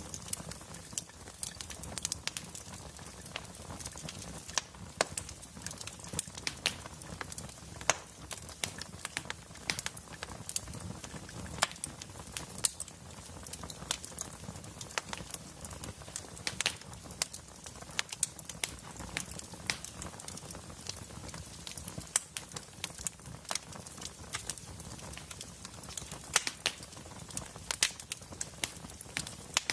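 Wood fire burning in a fireplace: irregular sharp crackles and pops from the burning logs over a steady low rush of flame.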